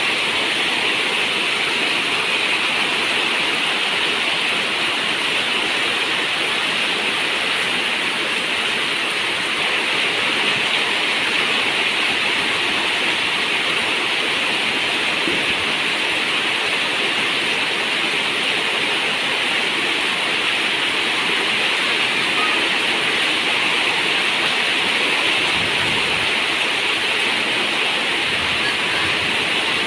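Steady, heavy rain drumming on a zinc roof in an unbroken hiss.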